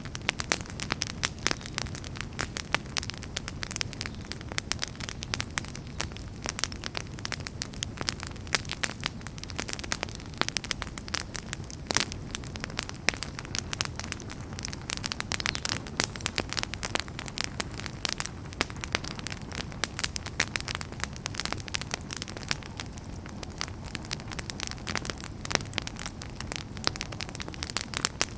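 Wood fire burning steadily, with dense irregular crackles and sharp pops over a low, steady rumble of flames.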